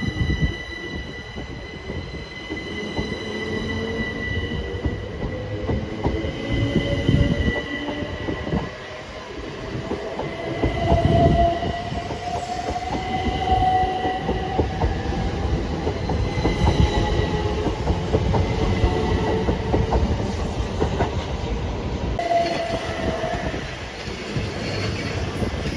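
Electric passenger train running through a station, wheels rumbling and clattering, with a motor whine that slowly rises in pitch as it picks up speed and a steady high tone over it. The sound changes abruptly about 22 seconds in.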